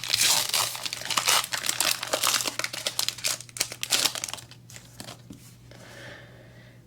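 A trading-card booster pack's foil wrapper being torn open and crinkled: a dense run of crackling for about four and a half seconds, then quieter, sparser rustling.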